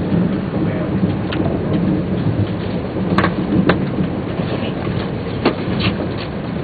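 Inside a Tōhoku Shinkansen Hayate (E2 series) passenger car running on the line: a steady low rumble of motors, wheels and running gear, with a few short sharp clicks in the middle and later part.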